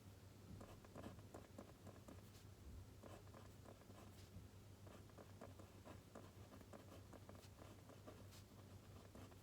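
Faint scratching and light tapping of a pen writing on paper, in short irregular strokes, over a steady low hum.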